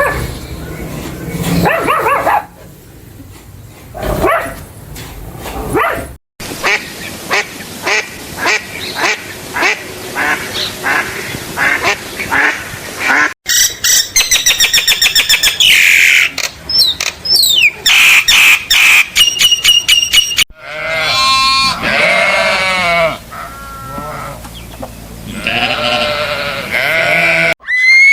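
Animal calls in several short clips cut one after another, likely farm birds such as ducks or geese: first a run of short, evenly repeated calls, then high-pitched chirping, then longer calls that fall in pitch.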